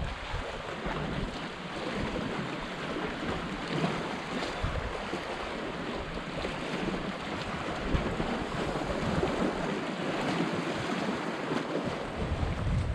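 Sea surf washing against the rocks in a gully, a steady rush, with wind buffeting the microphone in low rumbles near the start and again near the end.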